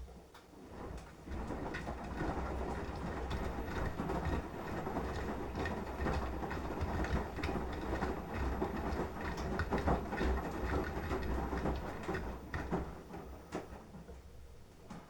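Beko washing machine drum turning during the wash, with wet laundry and water sloshing and clattering over a low motor hum. It starts after a click, builds up over the first second or two and winds down near the end, as the drum pauses between tumbles.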